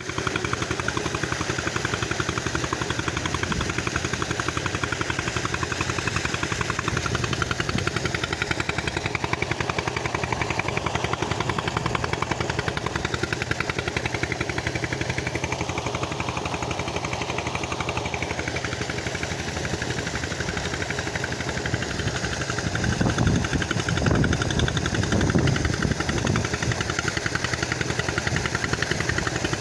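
An engine running steadily with a rapid, even chugging, powering a homemade sand-loading machine. Louder low rumbling comes in bursts about three-quarters of the way through.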